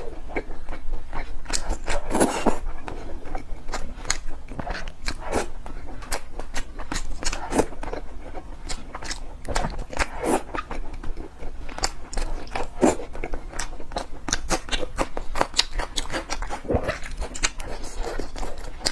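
Close-miked eating: chewing and biting with a dense, irregular run of wet mouth clicks and smacks, a few every second.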